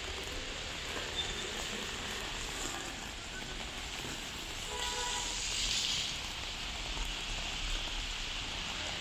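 Heavy rain hissing steadily on a city street. About five seconds in, a louder swish rises and fades as a vehicle passes on the wet road, carrying a brief pitched tone.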